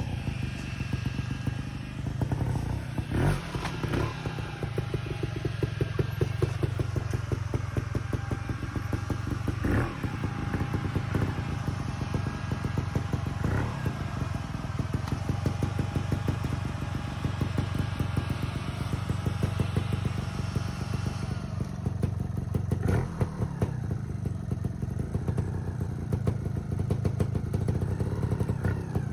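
Trials motorcycle engine running at low revs with short throttle blips, with several sharp clatters and scrapes as the bike works over rock.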